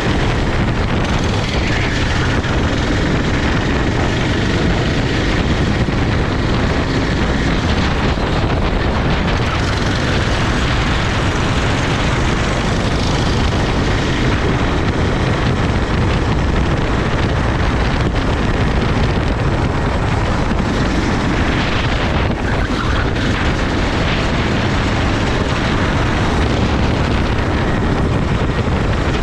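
Racing kart engine running at speed, its pitch drifting up and down, largely buried under a steady rush of wind noise on the microphone.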